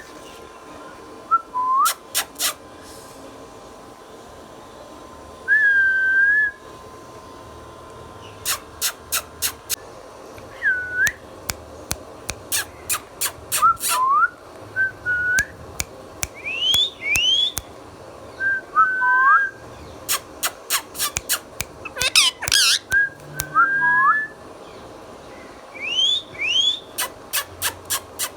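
A ringneck parrot gives short whistles that glide up and down, mixed with quick runs of sharp clicking chirps and short pauses between.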